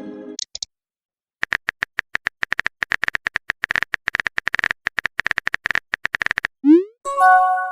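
Rapid clicks of a keyboard-typing sound effect, several a second, then a quick rising swoosh and a short chime near the end, like a message being sent in a chat.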